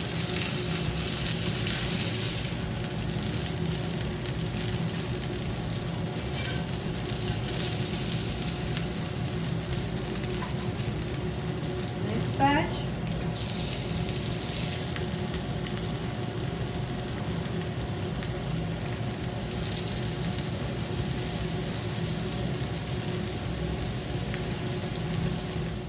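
Breaded chicken breasts frying in oil in a cast iron skillet: a steady sizzle that flares louder a few times as pieces are moved and fresh ones laid in. There is a short rising squeak about halfway through.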